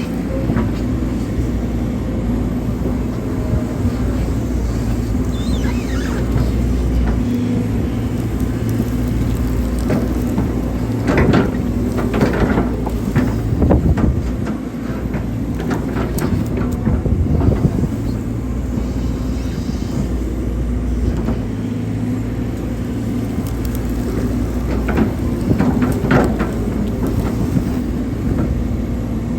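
Hydraulic excavator's diesel engine running steadily under work. Short knocks and scrapes come in clusters around the middle and again near the end.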